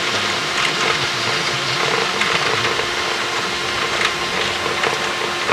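Steady hiss of an aircraft intercom feed with a constant hum and light crackle. The twin-engine Cessna 310's engine noise runs underneath.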